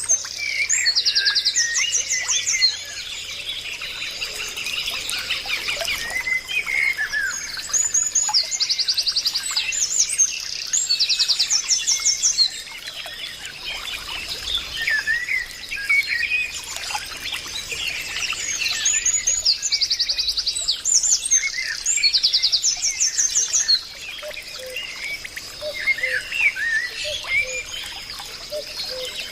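Several birds singing and chirping, with bouts of fast repeated-note trills that come and go every few seconds.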